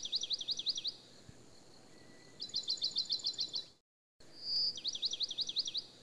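High-pitched bird calls: runs of fast sliding chirps, about ten a second, one of them led in by a long held whistle. The calls break off for a moment of complete silence just before four seconds in, then the same sequence starts over.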